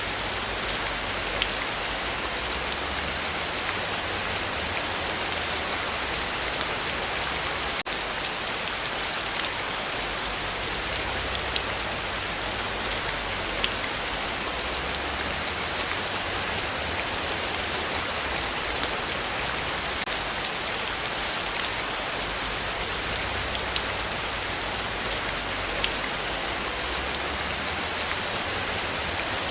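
Heavy steady rainfall: a dense hiss of rain with many separate drops ticking on surfaces, over a faint low rumble.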